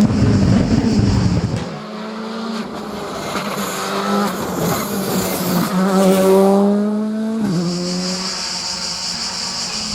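Rally car at full throttle: a loud, close burst of engine noise at first, then the engine note climbing as the car accelerates away, with a sudden drop in pitch at a gear change about seven and a half seconds in.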